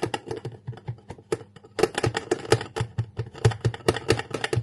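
Rapid run of sharp clicks and taps, several a second, like a kitchen utensil striking a bowl, growing louder about two seconds in.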